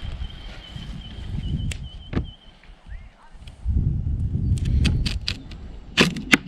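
A few sharp knocks and clicks of a knife and vegetables on a cutting board, heard over a low, uneven rumble of handling.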